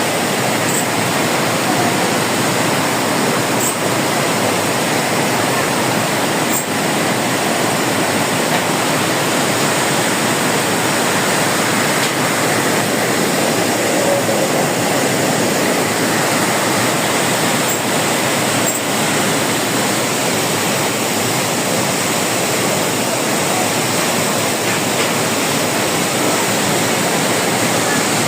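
Waterfall: the loud, steady rush of a large volume of falling water, unchanging throughout, with a few faint clicks.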